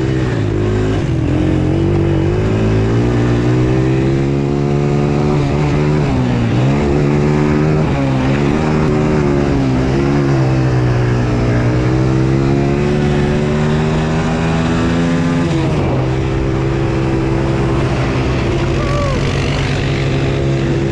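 Small off-road vehicle engine running under throttle while being ridden. Its pitch rises and falls as the rider opens and closes the throttle, with sharp drops about six and sixteen seconds in.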